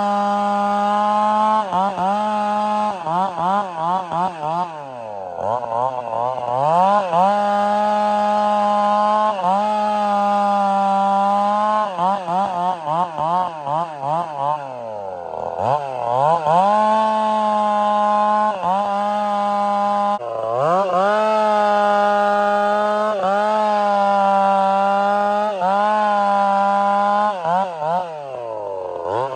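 Two-stroke chainsaw bucking firewood, running at high revs under load with the revs wavering as the throttle is worked. It drops to a low idle about five seconds and fifteen seconds in, revs back up, and idles down again at the end.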